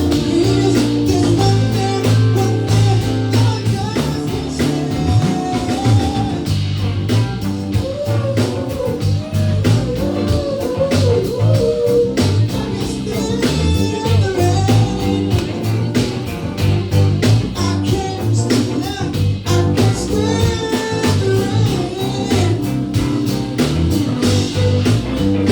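Band playing a blues-rock cover with singing and electric guitar over bass and a steady drum beat.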